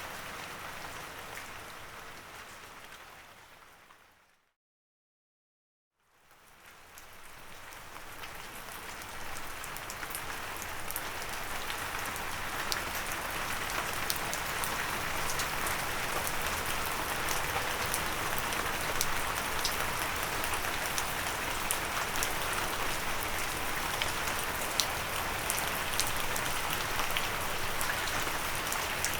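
Steady rain pattering on a windowsill, with individual drops ticking through the hiss. About four seconds in it fades out to silence. About two seconds later it fades back in and builds over several seconds to a steady, fuller downpour.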